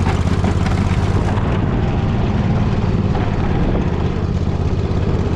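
Poulan riding mower's engine running steadily under load while pushing a plow blade through snow.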